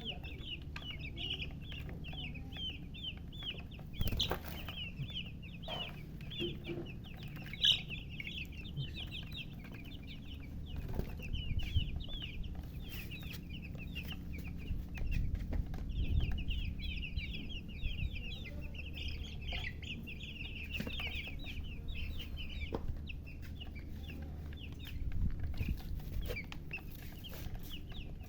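A group of newly hatched chicks peeping rapidly and continuously in high, short chirps, thinning out for a few seconds midway, with a few sharp knocks or taps.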